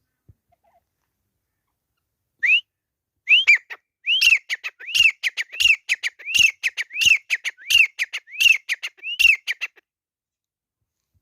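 Grey francolin calling: one rising whistled note, then a loud run of arched whistled notes repeated about once every 0.7 seconds for some six seconds, then it stops.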